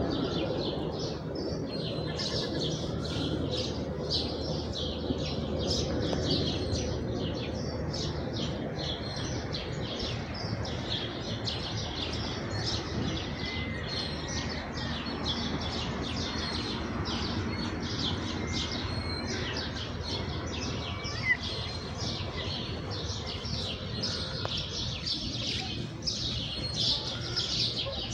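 Many house sparrows chirping at once: a dense, unbroken chatter of short overlapping chirps, over a low steady background hum.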